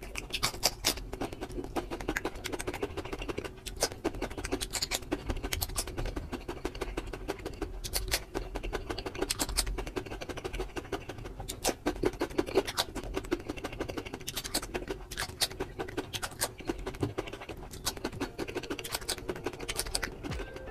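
Close-miked chewing of raw cucumber slices: irregular crisp crunches and mouth clicks, with a clump of louder crunches every few seconds as a fresh slice is bitten.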